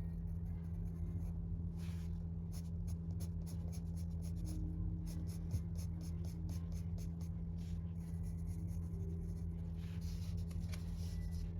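Writing by hand on paper: a quick run of short scratchy strokes, several a second, easing off about two-thirds of the way through and picking up again near the end, over a steady low hum.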